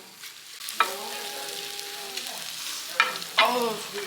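Dakgalbi sizzling in a hot pan, a steady frying hiss. A held, pitched voice-like tone sounds about a second in, and brief voice sounds come near the end.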